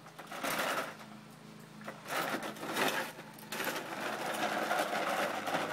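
A large plastic toy truck being pulled along on a rope, its wheels and body rattling as it rolls. It comes in two short spells, then rattles continuously from a little past halfway.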